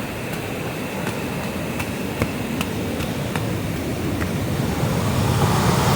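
Rushing creek water, a steady wash that grows louder near the end, with a few light clicks over it.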